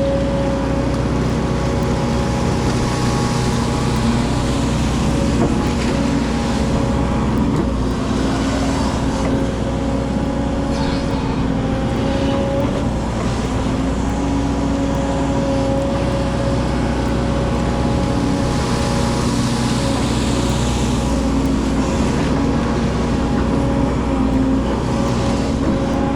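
Excavator's diesel engine running steadily, a constant droning note that holds without a break.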